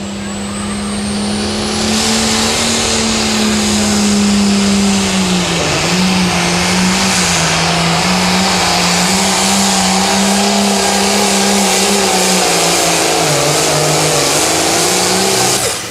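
Turbocharged diesel engine of a limited pro stock pulling tractor running at full throttle under the load of the weight sled, its note holding steady with a few brief dips. A high turbo whine climbs over the first couple of seconds, and the engine sound drops away abruptly near the end.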